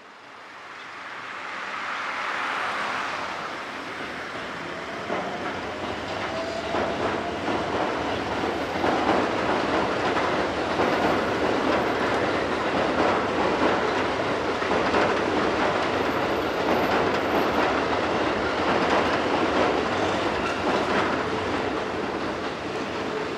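Keikyu commuter train running on the rails, wheels clacking over the rail joints in a rapid run of clicks. It fades in over the first few seconds, then stays loud and steady.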